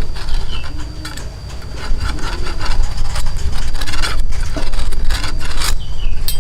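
Wood being worked by hand, a hand tool rasping across timber in repeated irregular strokes.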